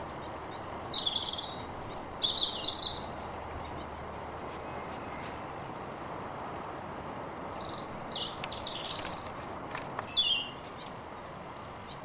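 Birds chirping in short phrases, about one to three seconds in and again from about eight to ten seconds in, over a steady outdoor background hiss.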